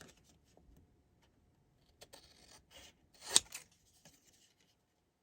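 Paper and cardstock being handled on a craft table: soft rustling and a dry scraping stretch, with one sharp click about three and a half seconds in.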